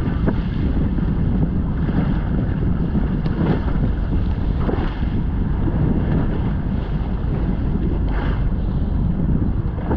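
Wind buffeting the microphone on a fishing boat at sea, with a steady low rumble and the wash of waves against the hull.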